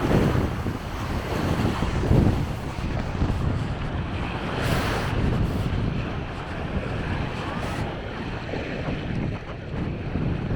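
Sea waves washing onto the beach, with wind buffeting the microphone in gusts. A wave surges up the shore about five seconds in.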